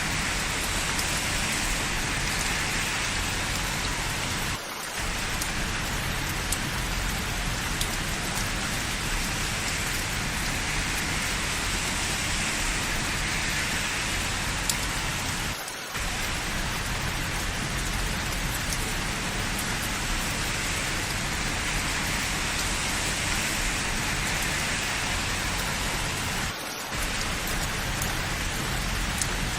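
Steady rain falling, an even dense hiss with no thunder, dipping briefly three times about eleven seconds apart.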